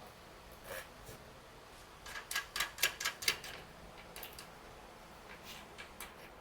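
A run of sharp clicks and taps, about eight in quick succession in the middle, with a few single clicks before and after: tools and bike parts being handled during a fork and tire fitting.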